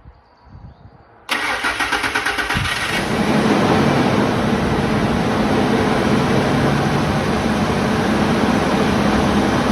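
2004 Ford F-150 Heritage engine cranking on the starter for under two seconds, then catching and settling into a steady idle, freshly fitted with new spark plugs and plug wires.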